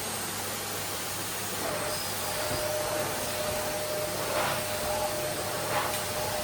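Vacuum cleaner running steadily: an even hiss with a steady whine, and a couple of brief louder swishes in the second half.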